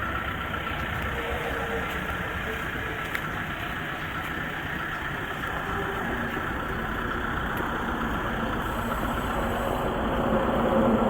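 Kia Bongo 3 1.2-ton cargo truck engine running steadily at idle, a little louder near the end.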